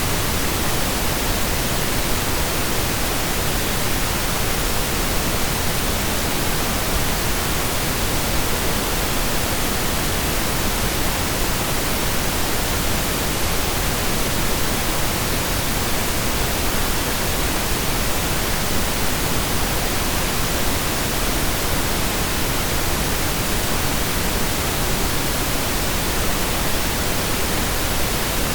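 Steady synthesized pink noise: an even hiss spread across the whole audible range, like steady rain, with no changes.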